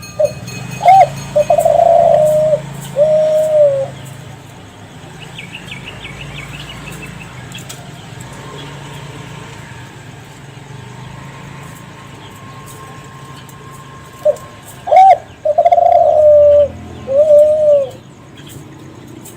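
Kelantan-strain spotted dove (derkuku) cooing: two phrases, one at the start and one about fifteen seconds in. Each phrase is a few short notes, then a long held coo and a closing note.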